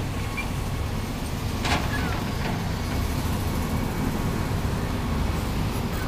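Steady low rumble of road traffic, with a single short knock about a second and a half in.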